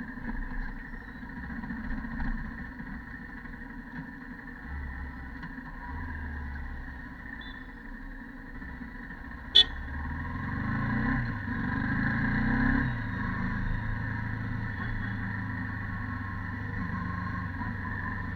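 Yamaha YZF-R15 V2.0's stock single-cylinder four-stroke engine running on the move, its note rising under acceleration for a few seconds past the middle and then easing off. A single sharp click a little before the rise is the loudest moment.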